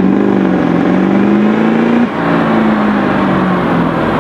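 A car engine running hard at high revs, its note climbing steadily, then dropping sharply about two seconds in, as at a gear change, before pulling on again.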